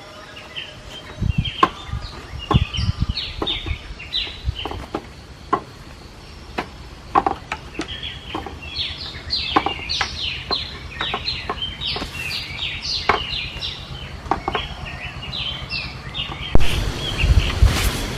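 Many short, descending bird chirps repeating rapidly, with scattered knocks and clicks. Near the end a loud, low rumble with heavy thumps comes in over them.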